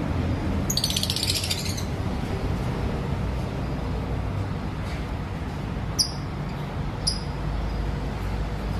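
Lovebirds chirping: a quick chattering run of high chirps about a second in, then two single sharp chirps later on, over a steady low background rumble.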